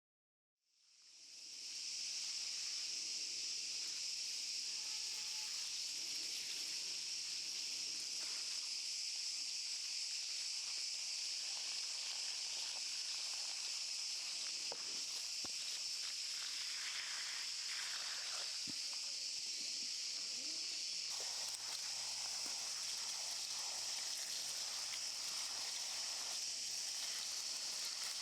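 Steady chorus of insects: a continuous high, buzzing hiss that fades in over the first two seconds and holds evenly, with a few faint knocks.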